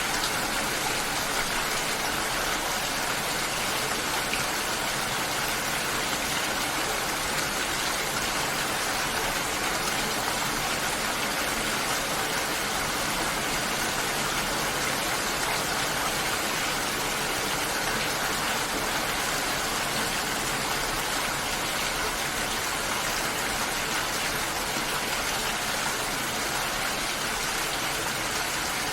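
Steady, unbroken water noise: an even hiss of rain or rushing water with no distinct drops or splashes standing out.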